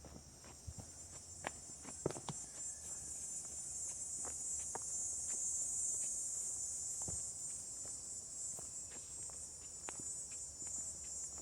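Insects droning in a steady, high-pitched chorus that swells toward the middle and then eases slightly, with the soft, irregular knocks of footsteps walking.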